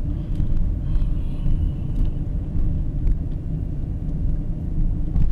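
Car driving slowly on a campground road: steady low engine and road rumble heard from inside the cabin, with a few light clicks and rattles.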